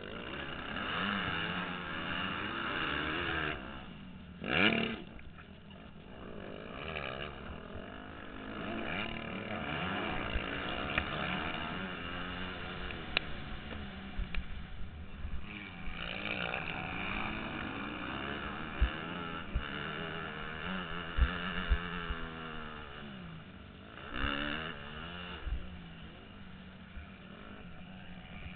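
Motocross bike engine revving up and down again and again, its pitch rising and falling with the throttle through the ride, with a sharp loud rev about five seconds in and occasional low thuds.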